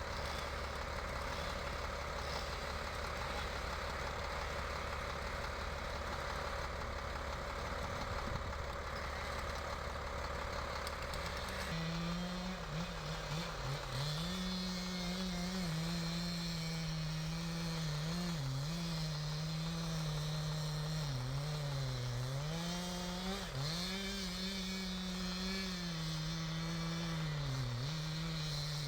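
An engine running over a steady mechanical noise. About twelve seconds in, a strong engine tone sets in and keeps rising and falling in pitch as the load and throttle change.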